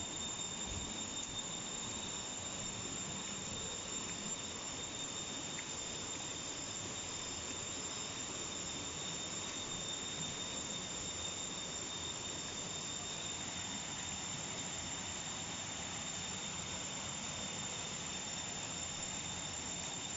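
Steady rush of a waterfall, with a continuous high-pitched insect drone over it.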